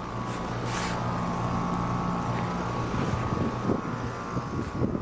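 A new 2021 American Standard Silver series heat pump outdoor unit running steadily in heat mode just after startup. It gives a steady low hum with a fainter, higher whine above it.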